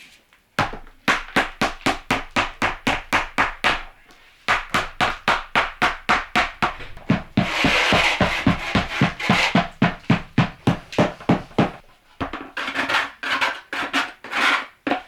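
Hardened plaster mortar being chipped out of a bucket with rapid, even knocks, about three or four a second. The knocking pauses briefly twice, and the middle stretch sounds rougher, with scraping mixed into the blows.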